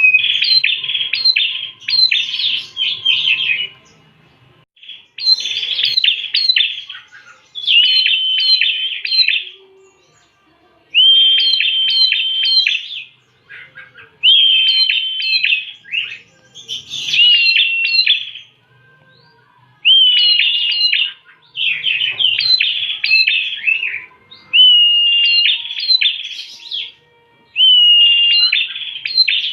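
Prenjak (prinia) song: phrases of rapid, high chirps a second or two long, some containing a steady whistled note, repeated with short pauses between them.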